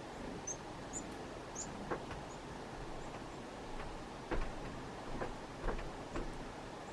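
Chickadees giving short high chirps, four or five quick notes in the first two seconds, over a steady background hiss. Light clicks and taps follow at irregular intervals, the loudest about four seconds in.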